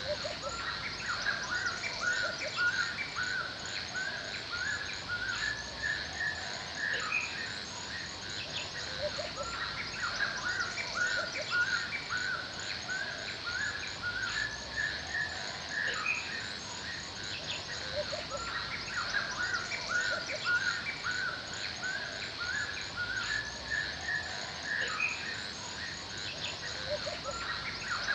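Forest ambience: many birds calling in short, quickly repeated chirps, over a steady high insect drone.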